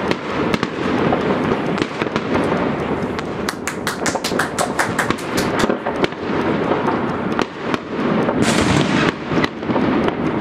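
Many fireworks and firecrackers going off at once in a continuous clatter of bangs and pops, with a fast run of sharp cracks in the middle and a hissing burst near the end.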